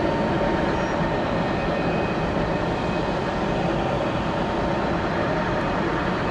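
Steady jet engine noise with a few faint whining tones from a departing Boeing 717-200's twin rear-mounted turbofans.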